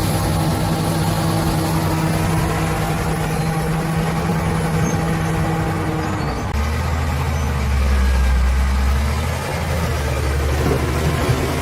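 Bulldozer's diesel engine running steadily; about six seconds in its note drops deeper and grows louder for a few seconds, then settles back.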